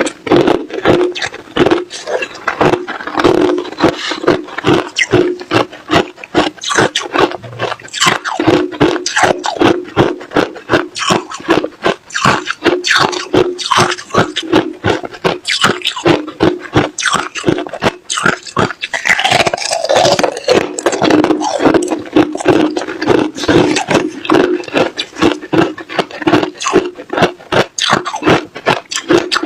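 Ice being chewed and crunched close to the microphone: a rapid, continuous run of sharp crunches between the teeth.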